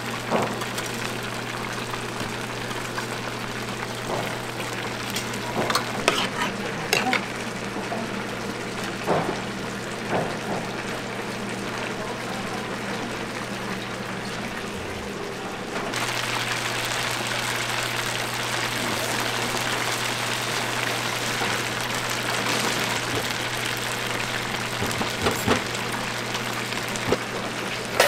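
Food frying and simmering: a steady sizzling hiss with scattered clinks and knocks of utensils in the first half, then a louder, denser sizzle from about halfway through. A low steady hum sits underneath.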